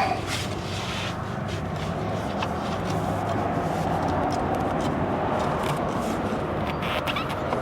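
Light metal clicks and scrapes of hand tools and steering parts being handled, scattered irregularly over a steady rushing background noise, with a sharper click right at the start.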